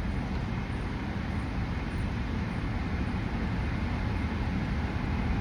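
Steady car cabin noise in slow stop-and-go traffic: a low engine and road rumble with an even hiss and no distinct events.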